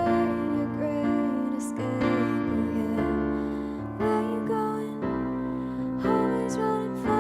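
A female vocalist singing a slow song over piano chords.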